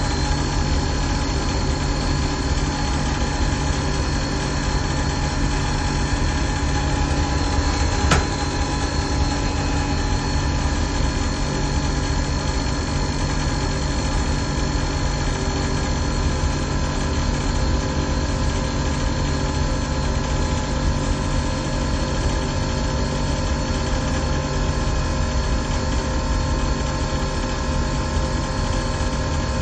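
Chiller-plant HVAC machinery running with a steady hum and several constant tones. A single sharp click about eight seconds in.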